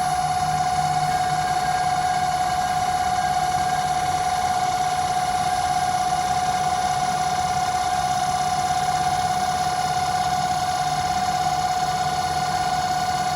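Homemade CNC lathe running: a steady machine whine held at one pitch, with a low hum beneath it.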